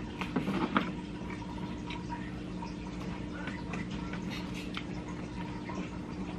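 Close-miked chewing and lip-smacking of someone eating pizza, with a cluster of louder wet smacks in the first second and softer ones after. A steady low electrical hum runs underneath.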